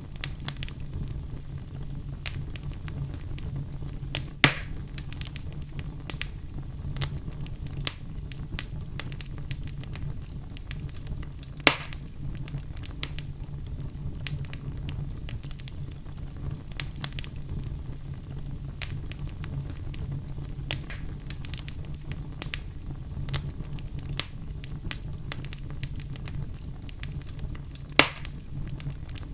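Wood fire crackling in a fireplace, with a constant scatter of small pops and three louder sharp snaps spread through it, over a steady low rumble.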